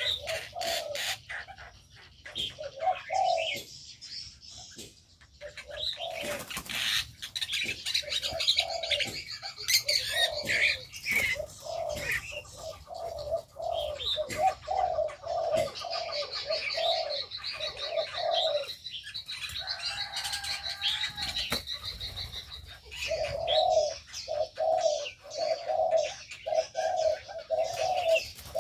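Several aviary birds calling at once: a long run of low, evenly repeated cooing notes, with higher chirps and trills over them.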